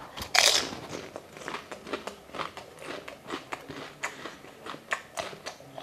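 A whole crisp fuchka (pani puri) shell crunching loudly as it is bitten about half a second in, then mouth-close chewing with many small crackling crunches.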